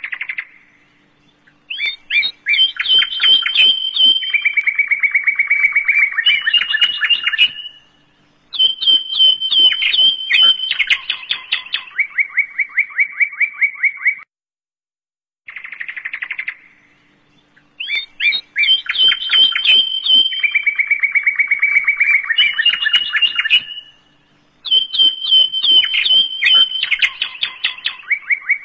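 Bird song of fast trills: runs of quickly repeated chirps held at one pitch, then stepping to another. The same passage of about fifteen seconds plays twice, with a short gap between.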